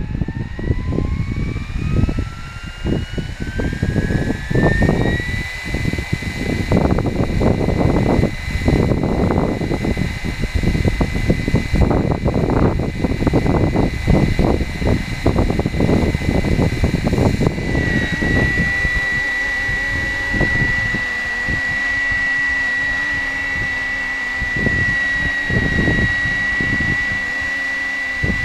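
470-size BO105 scale RC helicopter spooling up: the motor and rotor whine rises in pitch over the first few seconds, then holds steady in flight. Gusty wind buffets the microphone heavily and eases about two-thirds of the way through.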